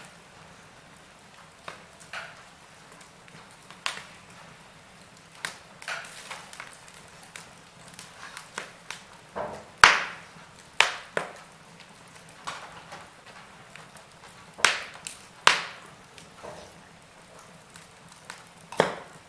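Wood fire crackling: irregular sharp pops and snaps of burning logs over a faint steady hiss, the loudest pops about ten seconds in, at about fifteen seconds and near the end.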